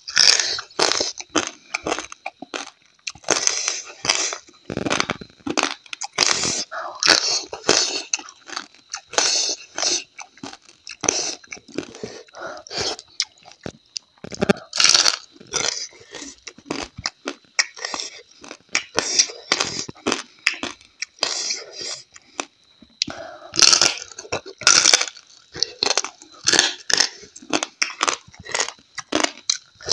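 A person chewing and crunching a hand-eaten meal of rice, crab and dried squirrel chutney close to a clip-on microphone: an irregular run of crisp crunches, a few a second, with louder crunch clusters about a third of the way in and again near the end.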